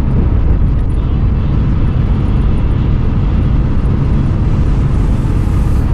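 Steady, loud low rumble of a vehicle running, with no clear pitch and no sudden events.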